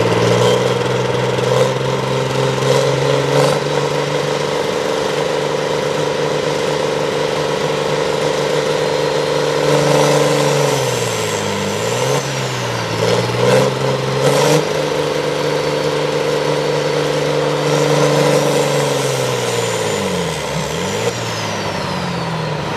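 A tractor engine running hard under load at a steady pitch, with a high whine above it. Its revs sag and recover twice, about halfway through and again near the end.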